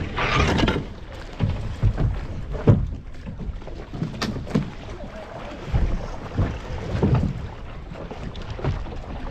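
Wind buffeting the microphone and water sloshing around a Laser sailing dinghy, with irregular thumps and a few sharp knocks from the boat.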